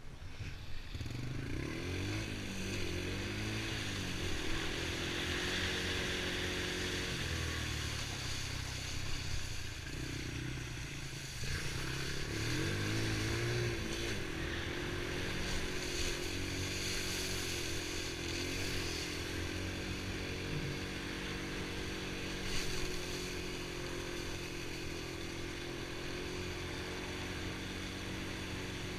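Honda TRX90 ATV's small four-stroke single-cylinder engine running under way, its pitch rising and falling with the throttle through the first half, dropping briefly about eleven seconds in, then holding fairly steady.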